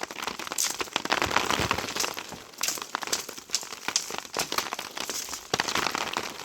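Dense rustling and crackling with many sharp clicks, like dry material being handled or crushed.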